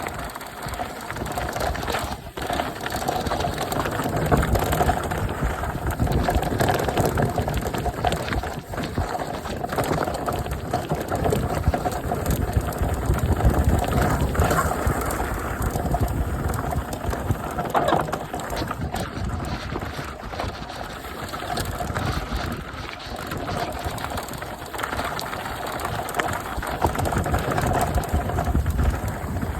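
Mountain bike riding down a rough trail: tyres rumbling over stones and gravel, with the bike rattling over bumps.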